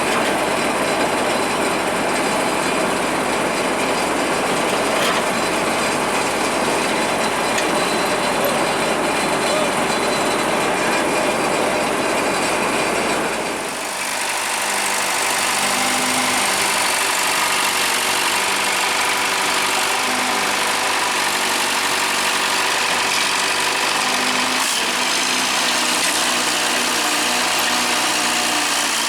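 Heavy machinery engines running steadily during the recovery of a stuck rice harvester. About halfway through, the sound changes after a short dip to a steadier engine hum with clear pitched tones.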